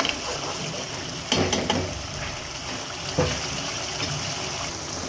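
Chicken pieces and masala frying in oil in a pan, with a steady sizzle; the masala has reached the stage where the oil has separated. A spatula scrapes and knocks against the pan a few times about one and a half seconds in and again a little after three seconds.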